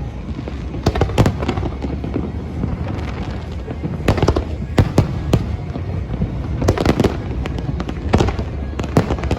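Aerial fireworks bursting in irregular volleys of sharp bangs and crackles over a constant low rumble, with clusters of reports about a second in, around the middle and again near the end.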